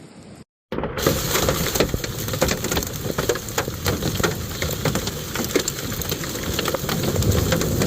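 Hail and heavy rain pelting down, a dense clatter of many sharp impacts. It starts abruptly after a brief break of silence near the start.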